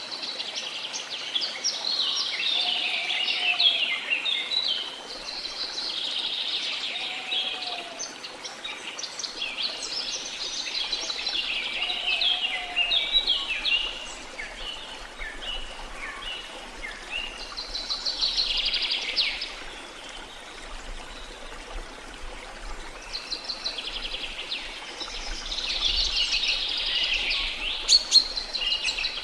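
Birds singing in bursts of rapid, high chirping every few seconds, with a lower short call repeating several times in the first half, over a steady hiss of falling water.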